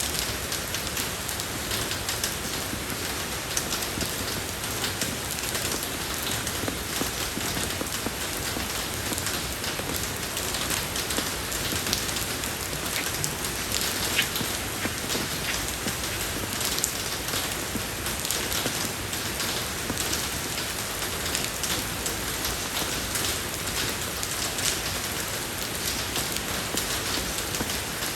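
Steady rain falling on a road surface, an even hiss dotted with many small drop ticks.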